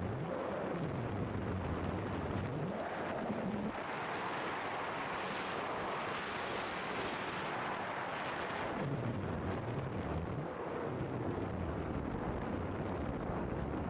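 Radio-control model airplane engine running as the plane flies by, its pitch sweeping down and up, loudest around the middle.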